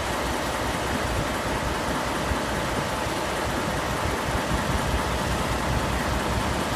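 Wind buffeting the microphone: a steady, rough rumble under an even hiss.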